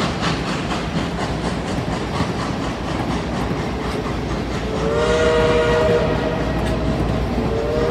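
Passenger coaches rolling past with the wheels clicking over the rail joints. A little over halfway through, a locomotive sounds a loud chime blast of about two seconds, then starts a second blast near the end.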